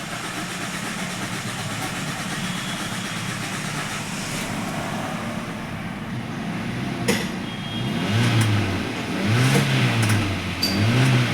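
Hyundai i20 engine being cranked on the starter motor without firing: after a click, the starter whirs up and dies away in three short attempts of about a second each. This is a crank-no-start, which the owner puts down to a faulty ECU and crankshaft position sensor. A steady low hum runs before the first attempt.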